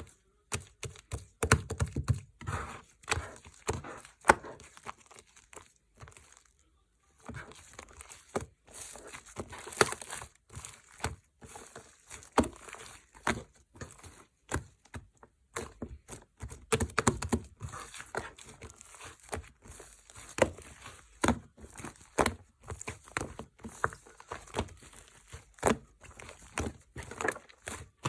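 Slime being squished and kneaded by hand, making a quick, irregular run of sticky clicks and small air-bubble pops, with a short pause about six seconds in.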